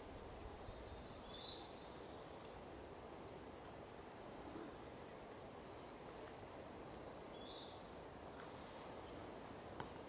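Quiet outdoor ambience: a faint even hiss with two brief high chirps from a small bird, one about a second and a half in and another near three-quarters of the way through, and a single sharp click just before the end.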